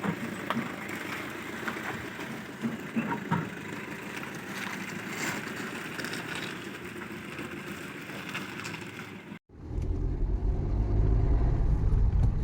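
Mixed outdoor background noise with scattered small clicks and knocks, then, about nine seconds in, an abrupt cut to the steady low rumble of a Maruti Suzuki Ertiga on the move, heard from inside the car.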